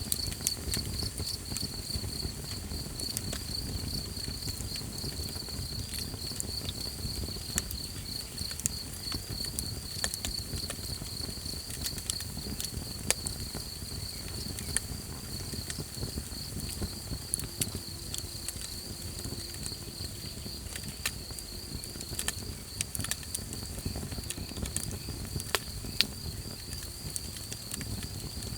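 Campfire crackling, with frequent sharp irregular pops over a low rumble of burning wood. Behind it, an insect keeps up a steady, rapidly pulsing high trill.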